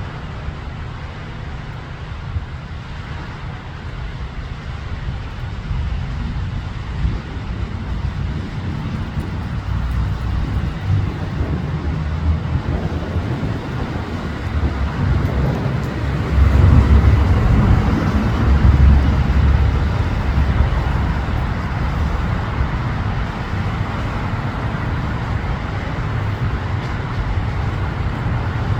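Steady low rumble of road traffic, swelling louder for a few seconds a little past the middle, as a vehicle passes.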